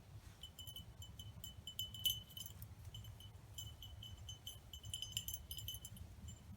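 Faint, irregular light metallic tinkling: many small chiming clinks, with a louder cluster about two seconds in. A steady low hum runs underneath.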